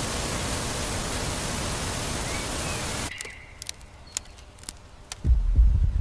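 A steady, even hiss cuts off suddenly about three seconds in. A few sharp clicks follow, then a heavy low thump and rumble near the end.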